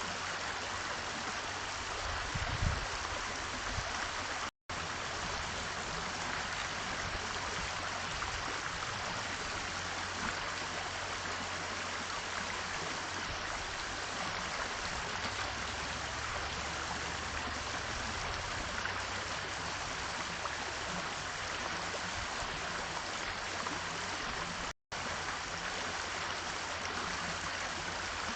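Steady rushing of running water, like a small stream, with no clear bird calls over it; the sound cuts out completely for an instant twice, about a quarter of the way in and again near the end.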